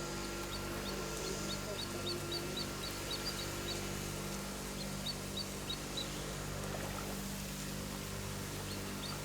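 A small bird calling in quick runs of short, high, falling chirps, about three or four a second, that stop about six seconds in and start again near the end, over a steady low hum.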